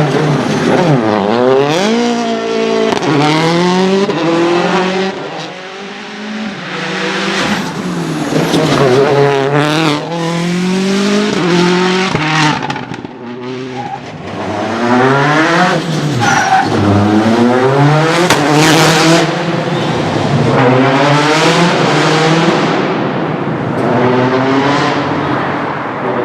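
Citroën C4 WRC rally car's turbocharged four-cylinder engine revving hard, climbing in pitch again and again through quick gear changes, with a few brief lifts off the throttle.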